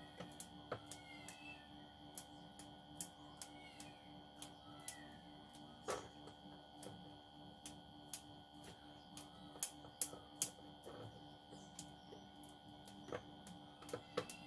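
Irregular sharp taps and clicks, roughly two a second, some louder than others, over a faint steady hum.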